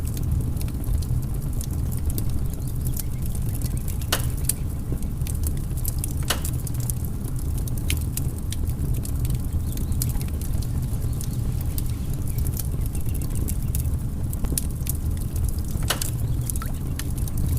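Wood fire crackling in a fireplace: irregular sharp snaps, with a few louder pops, over a steady low rumble of the flames.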